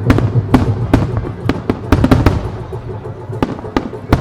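Starmine fireworks barrage: a rapid run of sharp shell bursts, thick in the first couple of seconds and thinning out after. Music plays underneath.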